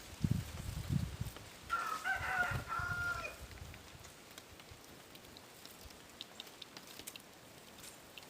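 A rooster crows once, a call of about a second and a half starting about two seconds in. Low thumps come before it, and a few faint ticks follow.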